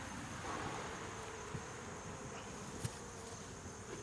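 Honey bees buzzing around an open hive, a steady hum, with two faint knocks in the middle.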